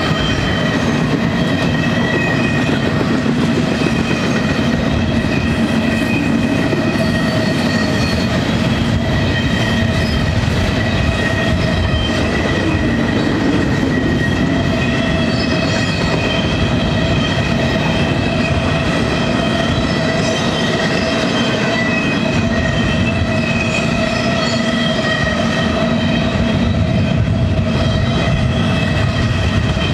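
Double-stack intermodal freight train's well cars rolling past close by: a loud, steady rumble of steel wheels on rail with steady ringing tones above it.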